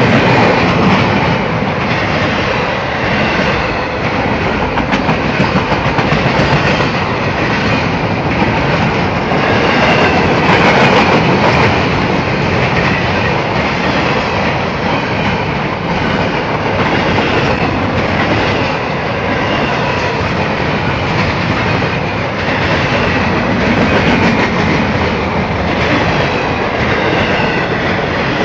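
CSX I-144 intermodal freight train passing close by: a loud, steady rolling of steel wheels on rail as the cars go past, with small swells in loudness.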